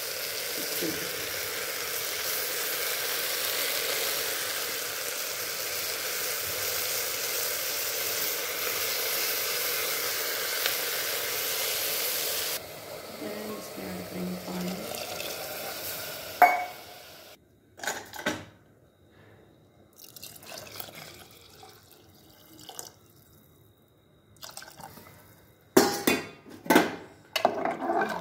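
Chopped vegetables sizzling in hot oil in an aluminium pressure cooker as they are stirred. The sizzle drops away about 12 seconds in. Then comes a quieter stretch as water goes into the pot, and near the end a metal spoon clatters sharply against the cooker several times.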